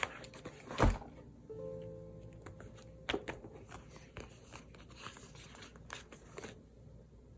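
Soft background music with the handling sounds of paper crafting: a sharp tap about a second in, then a few lighter taps and paper rustles.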